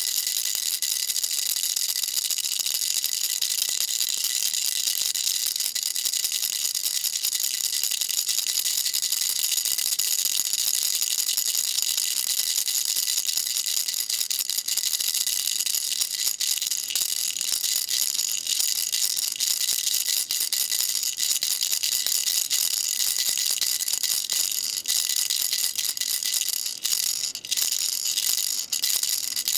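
Baby rattle shaken continuously: a dense, steady high-pitched rattle of small beads inside a toy, with a few brief dips near the end.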